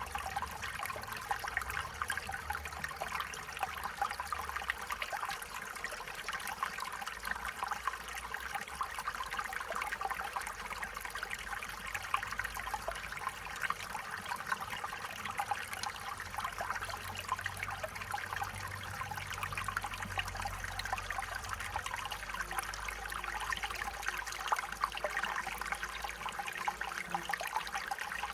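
Small stream flowing steadily, with water trickling and babbling over stones. Beneath it is a faint low rumble.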